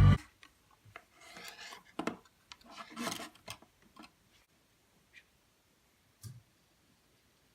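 Loud organ music cuts off abruptly, followed by scattered faint scraping and rubbing noises and a single soft knock near the end.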